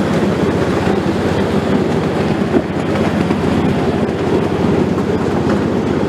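Train running steadily along the track, heard from aboard: a continuous, even mix of wheel and carriage noise.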